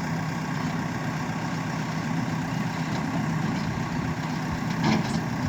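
Heavy diesel engine running steadily at idle, with a short knock about five seconds in.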